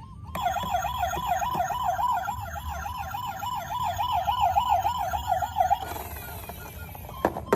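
Electronic toy siren sounding a fast warble, about four rises and falls a second, which stops about six seconds in. A few clicks follow near the end.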